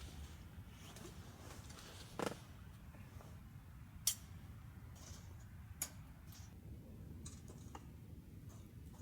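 Wood fire crackling softly, with a few irregular sharp pops over a faint low rumble.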